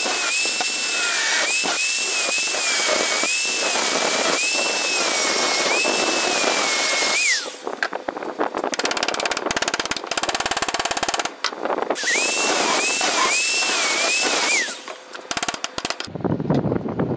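Handheld electric power tool's motor whining at high speed, its pitch dipping again and again as it takes load, then winding down; clicks and rattling follow, and it runs up again briefly about twelve seconds in before winding down a second time.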